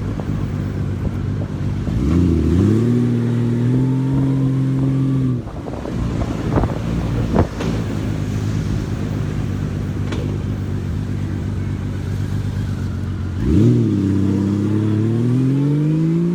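Honda Valkyrie 1500 flat-six engine heard from the saddle, with wind on the microphone. The engine pulls up in pitch about two seconds in, holds, and rolls off. It then lopes quietly until it pulls hard again with a rising pitch near the end, dipping briefly at a gear change.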